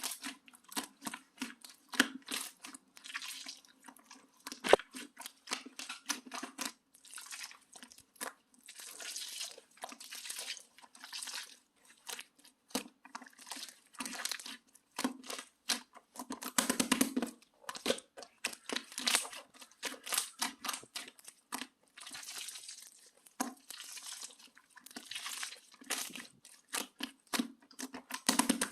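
Translucent slime being squished, stretched and pressed by hand, giving irregular sticky clicks, pops and crackles.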